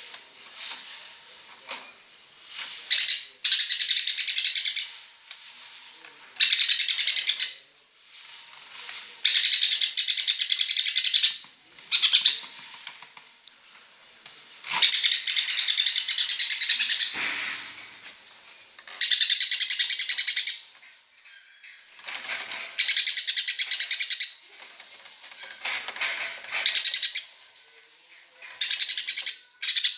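A cucak ijo (green leafbird) singing, mimicking the chirping of a tree sparrow: about nine bursts of fast, dense, high chirps, each one to two and a half seconds long, with short pauses between.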